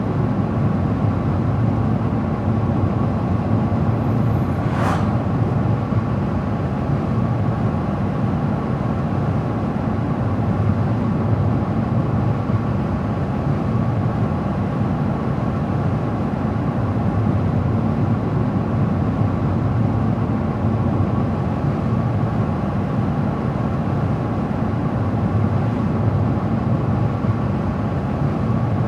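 A car driving steadily at road speed: an even rush of tyre and road noise with engine hum that holds constant throughout.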